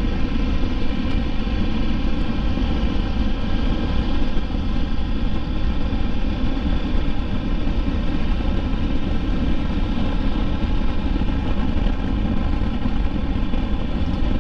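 Triumph Tiger 1200 motorcycle's three-cylinder engine running at a steady cruising speed, with wind and road rumble.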